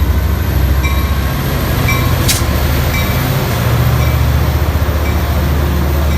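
Metrolink F59PHI diesel locomotive running with a loud steady low rumble, its bell ringing about once a second. One sharp short burst comes about two seconds in.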